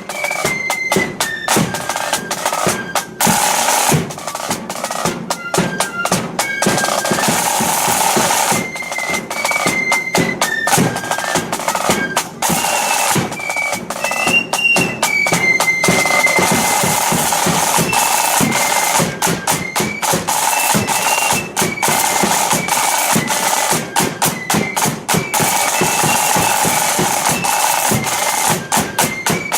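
Marching flute band in the Ulster 'blood and thunder' style playing a march: flutes carry a high melody over constant snare drum rolls and bass drum beats.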